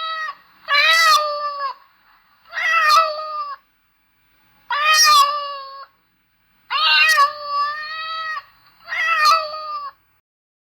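Domestic cat meowing over and over, one drawn-out meow about every two seconds.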